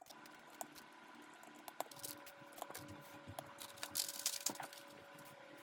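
Keystrokes on a mechanical keyboard: scattered single presses, then a quicker run of several keys about three to four seconds in, over a faint steady hum.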